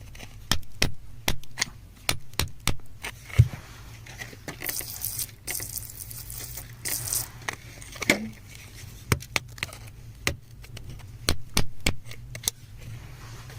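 A metal hand tool tapping and chipping at rock in sharp, irregular clinks, one or two a second, with two short scrapes near the middle.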